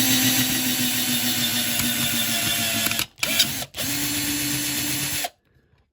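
Small electric drill running under load as it drills out the rivet post holding a diecast toy van's base plate. It runs for about three seconds, stops briefly with a short blip, then runs again for about a second and a half before cutting off.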